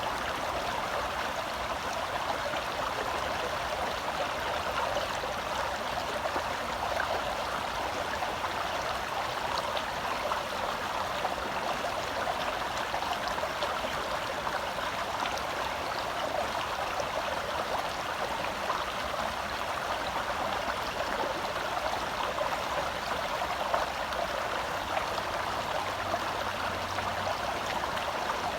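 Forest stream flowing over rocks: a steady rush and burble of water.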